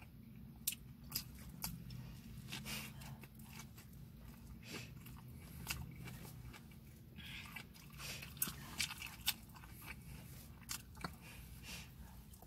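Close-up chewing and biting of a sandwich, with many short wet mouth clicks and crunches at uneven intervals. A steady low hum runs underneath.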